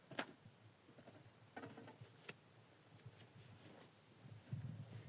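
Faint, scattered light taps and crackles, a few sharp ones spaced about a second apart, with a soft low rustle near the end.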